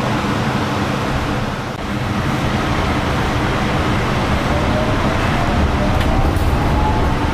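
Yurikamome rubber-tyred automated train running along its guideway: a steady rumble and running noise. About two-thirds of the way in, a faint whine begins that slowly rises in pitch.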